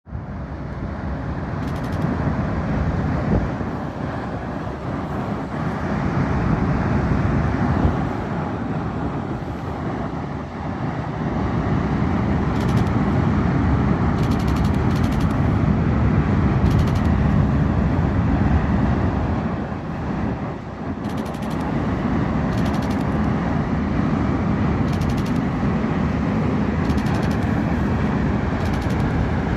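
Loud, low outdoor rumble that swells and eases every few seconds, with faint clicks high above it.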